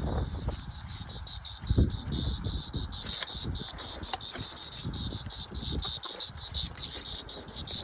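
Insects chirping in a steady, high-pitched, evenly pulsing chorus. Irregular low thumps and rumbling sit underneath, loudest about two seconds in.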